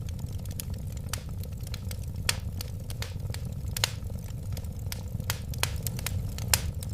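Wood fire crackling: irregular sharp pops and snaps, several a second, over a steady low rumble of the flames, with a few pops louder than the rest.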